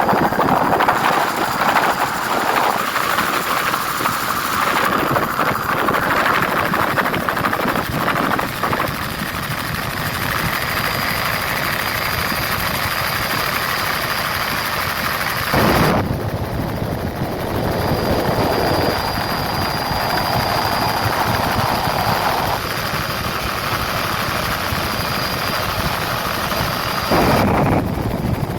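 Helicopter in flight, its rotor and engine running with a steady, dense noise that swells briefly about halfway and again near the end.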